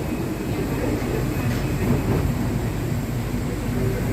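Bangkok Yellow Line monorail train running, a steady low rumble with a faint high whine above it.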